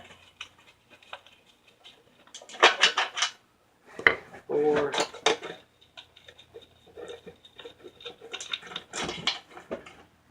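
Metal clinking and rattling as 1/2-inch oil pan bolts are worked out of a TH350 automatic transmission pan with a wrench, in two busy clusters of quick clicks, the louder about three seconds in and another near the end.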